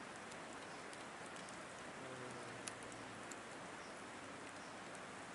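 Wood fire burning in a Picogrill 760 fire pit: a steady hiss with a few sharp crackles and pops from the burning thick logs.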